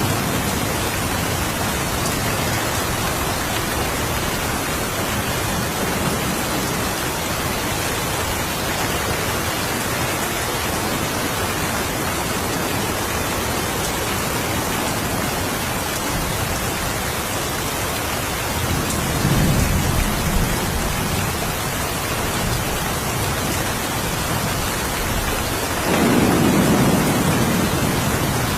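Steady rain falling, with thunder rumbling low twice: once about two-thirds of the way through, and again near the end.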